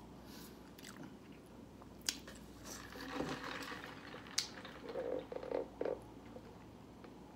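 Close-up chewing of chicken tacos, with a few crisp clicks and soft mouth sounds. Near the end, sipping a drink through a straw, with several gulps, which are the loudest sounds here.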